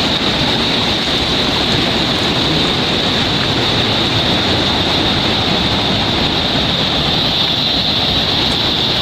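Water rushing steadily, a continuous even noise with no breaks.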